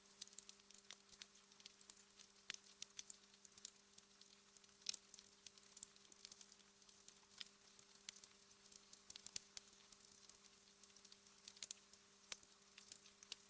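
Wood fire crackling in a fireplace: irregular small pops and snaps, one sharper pop about five seconds in, over a faint steady low hum.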